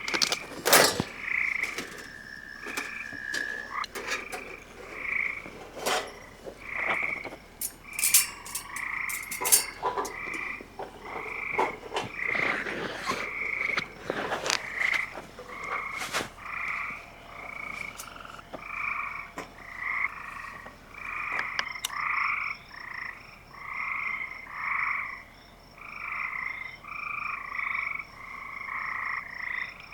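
A chorus of frogs calling in a steady train of short, repeated notes. Sharp pops and crackles from the wood fire in the fire pit sound through the first half. A thin high steady tone joins about two-thirds of the way through.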